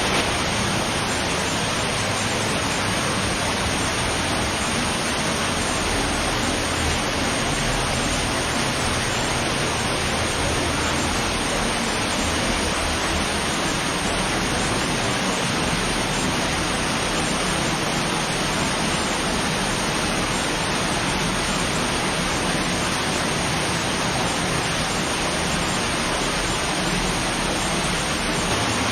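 Rushing water of an underground cave stream running high, a loud, steady wash of noise that does not let up.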